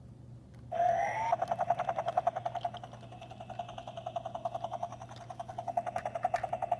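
Toy helicopter's electronic rotor sound effect from its small speaker. It starts about a second in with a short rising whine, then goes into a fast, even chopping pulse on one steady pitch.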